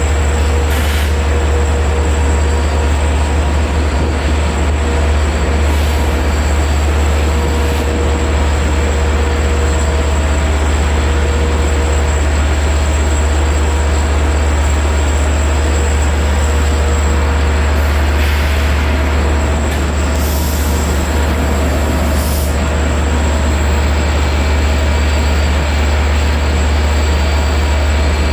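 Train running by at close range: a loud, steady low rumble with faint held tones, and a few brief clicks scattered through.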